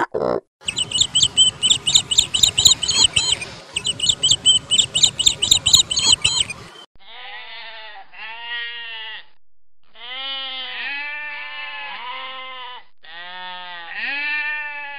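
Rapid high-pitched chirping over a noisy background for about six seconds, then an animal bleating in several long wavering calls.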